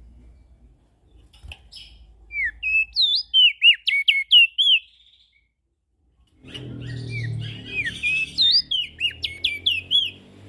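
Prenjak daun singing in two bursts of quick, high, sweeping chirps with a short pause between them. A low rumble sits under the second burst.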